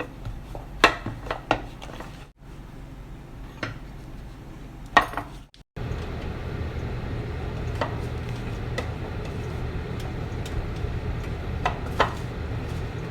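Kitchen utensils and dishes clinking and knocking against a bowl while chicken is coated in flour: a few sharp knocks during the first six seconds. After that comes a steady low hum and hiss, with occasional clicks.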